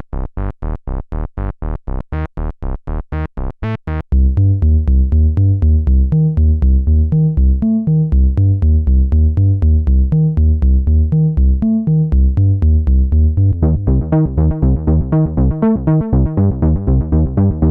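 Roland SE-02 analog monosynth playing a fast repeating sequence of short notes while stepping through its factory presets. About four seconds in it switches to a deep, dull bass patch, and near the end the tone turns brighter.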